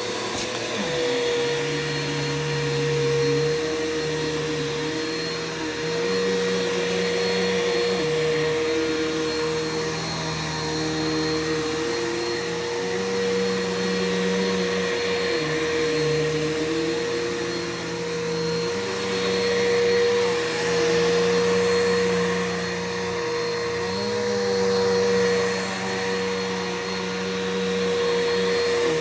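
Bissell PowerForce 6583-F bagless vacuum cleaner running steadily while vacuuming. It has a constant high whine, and its lower hum steps up and down in pitch every second or two.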